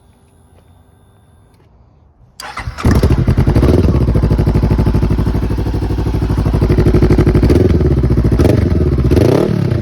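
2015 Honda CBR500R's parallel-twin engine started: a brief crank on the starter, catching about three seconds in, then idling steadily, with small rises and dips in pitch near the end.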